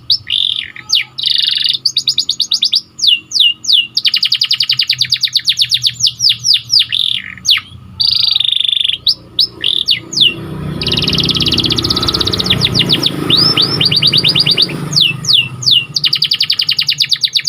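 Domestic canary singing: rapid rolling trills of fast-repeated notes, broken by series of quick downward-sweeping whistles. In the middle, for several seconds, a low rushing noise runs under the song.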